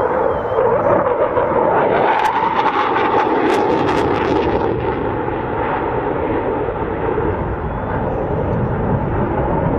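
Dassault Rafale fighter's twin jet engines in a display pass: loud, steady jet noise, with a stretch of crackling about two to four seconds in.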